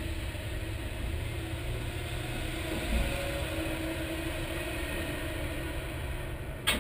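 1965 Plymouth Belvedere drag car's engine idling steadily, heard from inside the cabin. There is a dull thump about three seconds in and a sharp click near the end.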